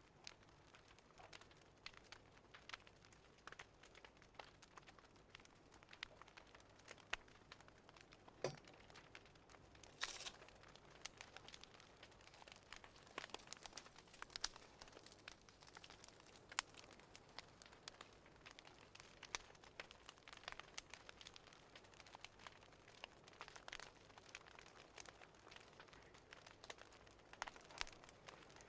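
Wood fire crackling faintly, with irregular sharp pops and snaps and one longer hissing crackle about ten seconds in.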